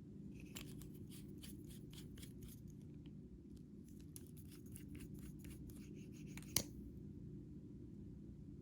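A run of small dry clicks and crackles from hand work with the materials, ending in one sharp click about six and a half seconds in, over a low steady hum.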